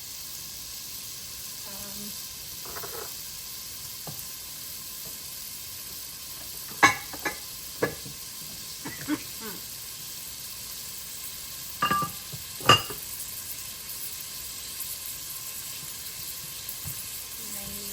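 Onions sautéing in oil in a pan, a steady sizzle. A few sharp knocks stand out about seven seconds in and again about twelve seconds in.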